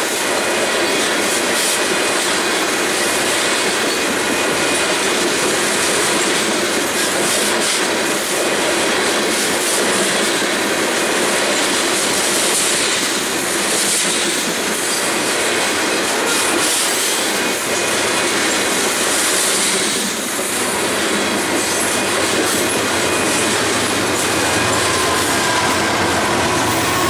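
Freight cars of a long grain train rolling past at close range: a steady, loud rumble and clatter of steel wheels on rail. Thin squealing tones from the wheels come in near the end.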